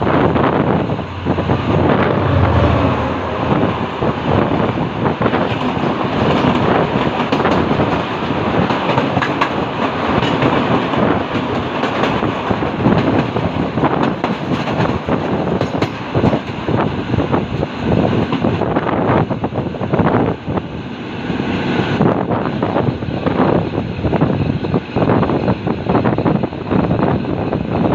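Train of the Egyptian railways running on the track, wheels clattering steadily over the rails with a continuous rumble.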